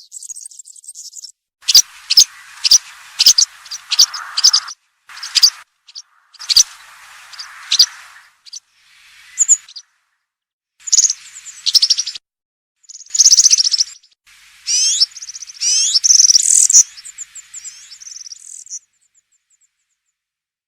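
European serin singing its fast, high-pitched jingling song in a series of short phrases with brief pauses. It stops near the end.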